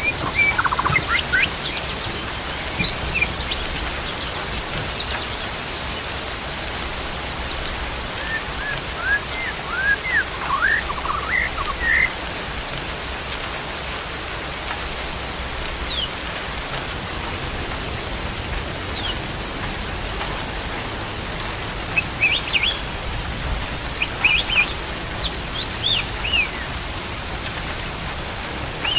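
Songbirds calling in scattered clusters of short whistles and chirps over a steady background hiss, a soothing bird-sound track played to calm a caged white-rumped shama.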